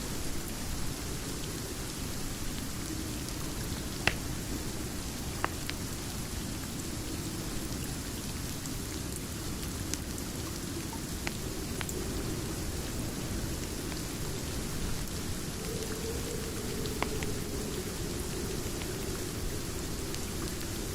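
Steady rain with a deep rumbling hiss, broken by a few scattered sharp pops of a wood fire crackling, the loudest about four seconds in.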